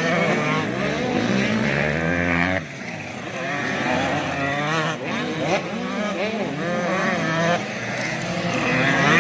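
Several 85cc two-stroke motocross bikes racing, engines revving hard, their pitch climbing and dropping with throttle and gear changes. The sound dips briefly about two and a half seconds in, then the engines rise again.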